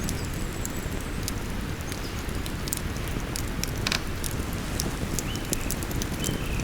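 Wood fire crackling with frequent sharp pops, one louder snap about four seconds in, over the steady low rush of a flowing river. A small bird chirps a couple of times near the end.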